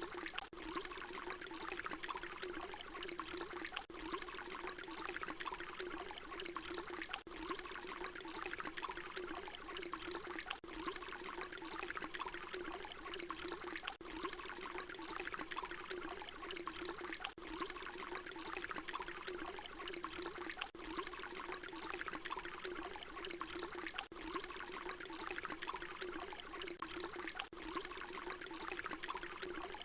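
Water pouring in a steady continuous stream, with a short recording looped so that a brief dip in level comes about every three and a half seconds.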